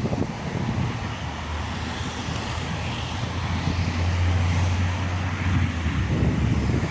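Rush-hour street traffic, with a vehicle engine's low drone that swells and is loudest from about four to five and a half seconds in.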